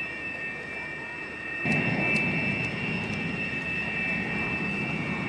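Jet aircraft engine: a steady high whine, joined a little under two seconds in by a sudden louder rush of jet noise that carries on.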